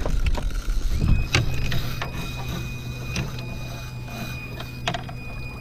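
Fishing reel working against a big hooked fish: scattered mechanical clicks, with a steady whirr that starts about a second in and holds on.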